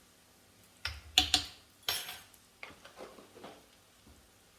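A spoon clinking and knocking against cookware: a few sharp clatters about a second in, then lighter taps, as a spice is spooned into the pan.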